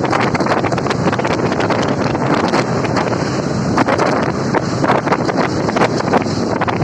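Wind rushing and buffeting against the microphone on a moving Yamaha Fazer motorcycle, a steady loud rush full of rapid crackles, with the bike's running beneath it.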